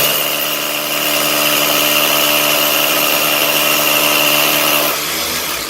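Handheld electric power tool running steadily as it grinds the edge of a brick guided by a welded jig. It winds down about five seconds in.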